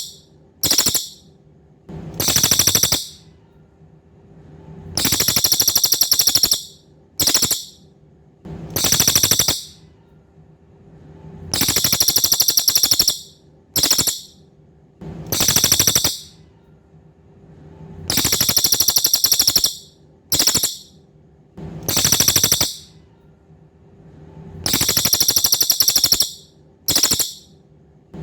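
Cililin songbird singing: very high, rapid trilled phrases about a second long, each followed by a short sharp note, the pattern repeating at a regular pace about every six to seven seconds. A faint steady hum lies under it.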